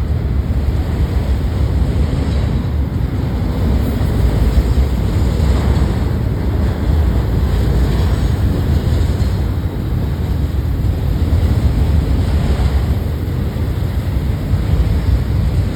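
Steady rumble of a passing freight train, mixed with heavy wind buffeting on the microphone; no horn.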